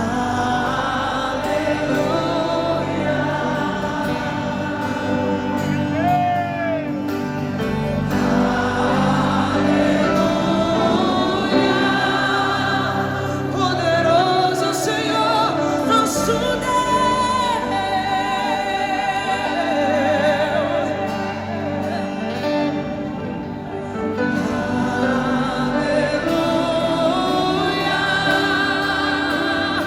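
Live gospel music: a woman singing a slow song with vibrato, over sustained band accompaniment with backing voices.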